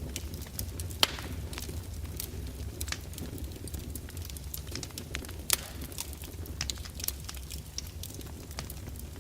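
Fireplace fire crackling: a steady low rumble under frequent irregular pops and snaps, two sharper snaps about a second in and just past the middle.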